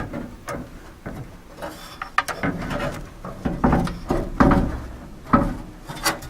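Knocks, clunks and scraping as the door glass and vent window assembly are worked back into the glass channels inside a steel truck door, with a few sharp knocks among irregular rubbing.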